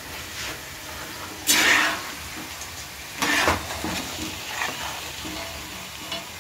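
Fried shakkarpare pieces going into a pan of hot liquid, with a low steady sizzle and two brief loud bursts of sizzling clatter, about one and a half and three seconds in.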